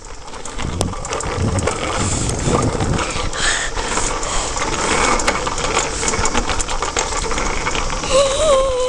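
Steady rushing noise of wind and movement on a head-mounted camera's microphone while cycling. A short wavering vocal sound comes in about a second before the end.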